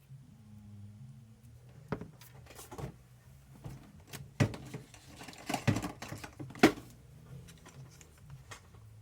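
Small parts of RC shocks being handled on a workbench: a run of light clicks and knocks, loudest and closest together in the middle, over a low steady hum.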